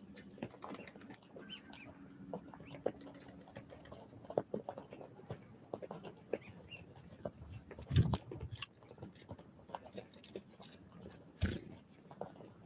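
Small wild birds at a feeder: irregular light taps and pecks, with two louder thumps about eight seconds in and again near the end, and a few brief high notes.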